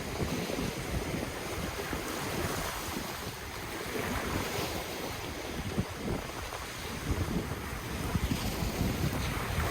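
Ocean waves washing in, with wind gusting on the microphone in an uneven low flutter.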